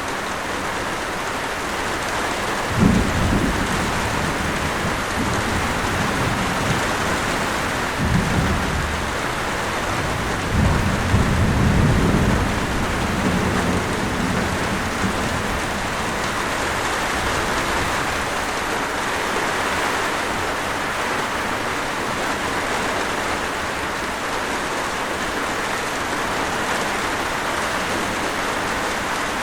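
Steady rain falling, with thunder: a sudden low rumble a few seconds in, another shortly after, and a longer rolling rumble a little before the middle.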